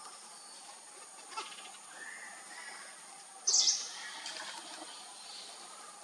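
Forest birds calling softly, with short curved whistles, over a steady thin high tone. About three and a half seconds in comes one loud, short, very high-pitched chirp.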